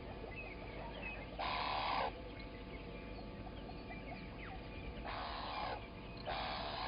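A wild bird giving harsh, raspy calls, each about two-thirds of a second long: one early, then a pair near the end, over faint chirps of small birds.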